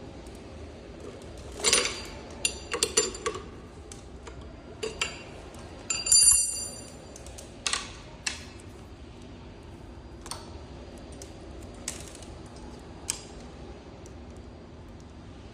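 Scattered metallic clinks and clicks of hand tools and small metal parts being handled and set down, about ten in all, with a short burst of ringing clinks about six seconds in.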